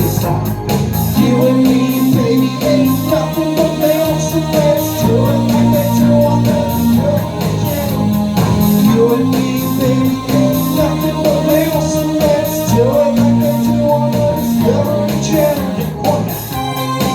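Live rock band playing a song: guitar and bass with a sung melody over them.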